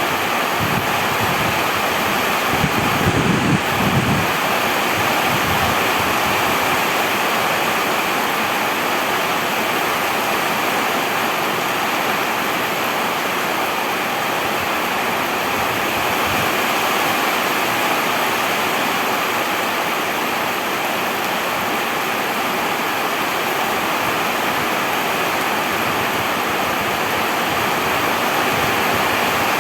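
Heavy rain falling steadily, a dense continuous hiss of water. A brief low rumble comes through about three seconds in.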